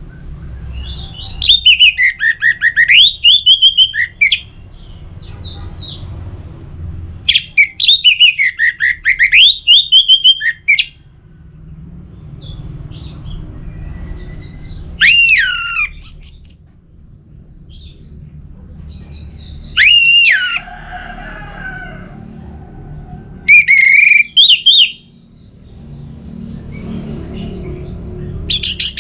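Orange-headed thrush singing loud phrases of rapid high notes, the first two about three seconds long and the later ones shorter with sharp downward sweeps, separated by pauses of a few seconds. A low background rumble lies under the song.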